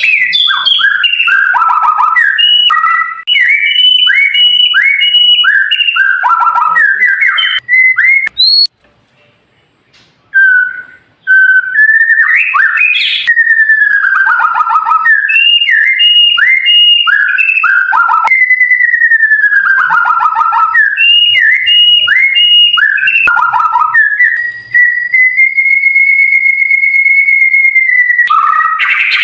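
White-rumped shama (murai batu) singing: rapid runs of clear whistled notes, many sliding downward. A break of about two seconds comes about a third of the way in, and one long steady whistle is held near the end.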